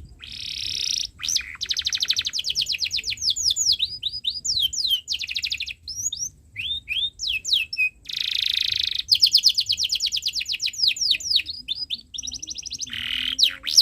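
Domestic canary singing a long, busy song: fast, even trills and buzzy rolls, broken by runs of quick falling whistled notes.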